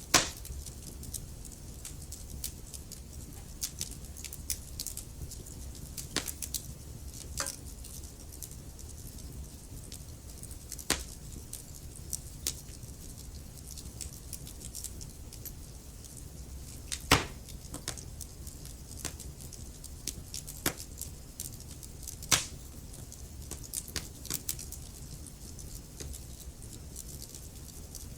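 Wood fire crackling: irregular sharp pops and snaps over a low, steady rumble of burning, with a few louder pops, the loudest about 17 seconds in and another about 22 seconds in.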